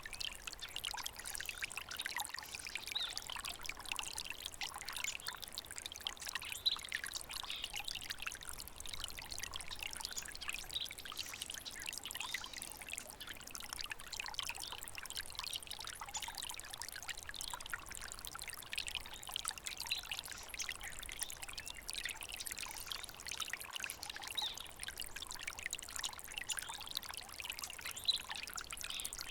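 A small water stream trickling and splashing steadily, a busy high-pitched rush without letup.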